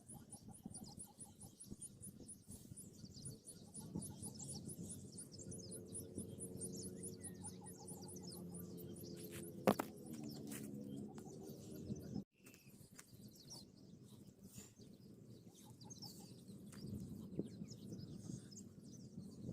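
Faint bird chirps, with a steady low hum lasting several seconds in the middle, a single sharp click about ten seconds in, and an abrupt cut to silence a couple of seconds later.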